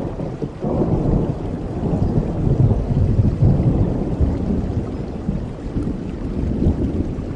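A thunderclap rolls over steady rain: a deep rumble swells about half a second in, is loudest a few seconds in, then slowly dies away.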